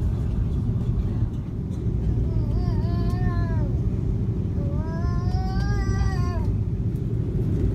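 Steady low rumble of an Airbus A330-200 cabin, with two drawn-out high wailing cries that rise and then fall, the first a little after two seconds in and the second, longer one about five seconds in.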